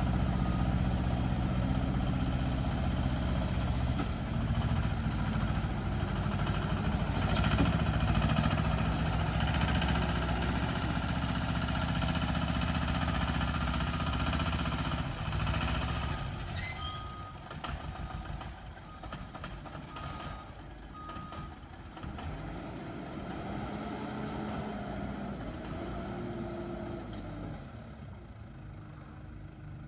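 Heavy earthmoving machine's diesel engine running loud, easing off about halfway through. A reversing alarm then beeps in short repeated tones.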